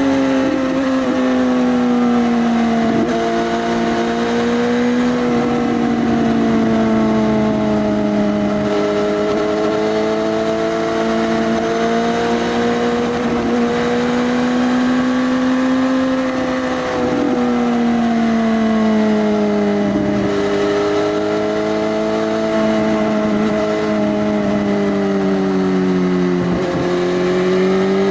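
Suzuki GSX-S1000's inline-four engine through an Arrow race full-system exhaust with its dB killer removed, running at fairly steady revs. Its pitch sags and rises slowly several times, with a few brief dips as the throttle eases.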